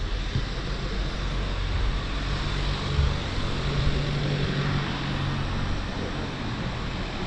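Steady city traffic noise: a continuous hum of road traffic with no distinct single vehicle standing out.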